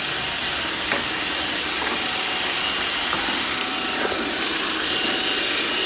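iRobot Roomba robot vacuum running steadily as it cleans a hard floor, its brushes and suction giving an even whir, with a few faint clicks along the way.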